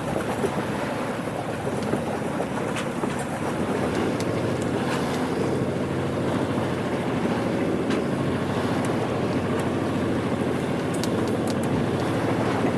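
Water rushing along the hull of a Moody 31 sailing yacht under way, with wind buffeting the microphone and a steady low hum underneath.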